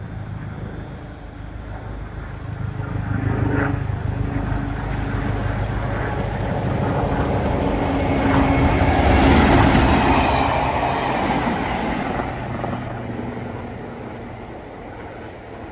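A large vehicle passing by: a low rumble that builds to its loudest about nine to ten seconds in, then fades away.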